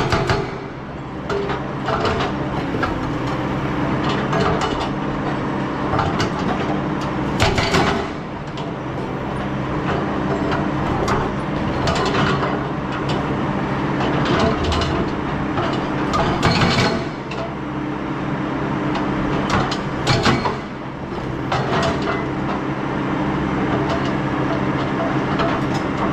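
Excavator's diesel engine running steadily, with short knocks and rattles every few seconds as the machine works.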